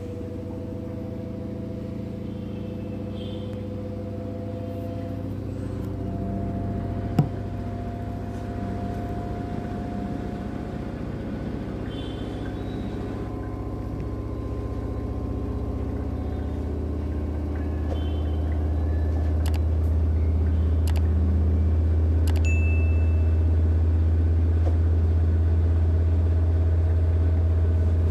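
LG FHV1408ZWP front-loading washing machine spinning up in its spin cycle, set to 1200 rpm: a steady low hum that grows louder about two-thirds of the way through as the drum gathers speed, then holds. A single sharp click sounds about seven seconds in.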